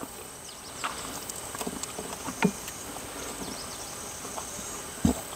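Steady high insect chirring, with scattered faint clicks and a single low knock near the end.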